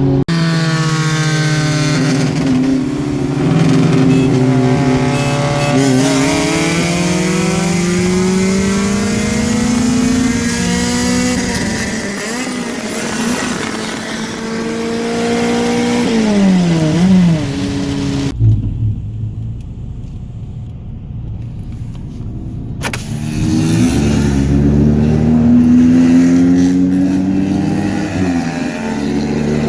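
Honda H23A four-cylinder engine under hard acceleration, its pitch climbing and then dropping again several times as it pulls through the gears. For a few seconds past the middle the sound turns muffled and low, then the revs climb again.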